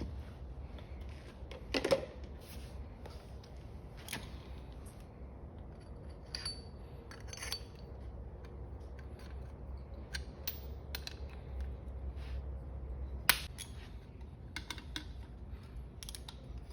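Scattered metallic clicks, taps and a few sharp knocks from hand tools and front-fork parts being handled while the fork's spring-loaded cap is pushed down, over a low steady hum. The sharpest knocks come about two seconds in and again near the thirteen-second mark.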